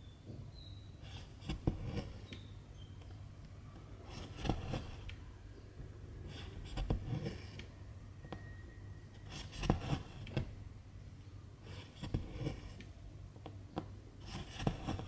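Needle and silk thread being drawn through cross-stitch fabric: short rustling, scraping pulls every couple of seconds, over a low steady hum.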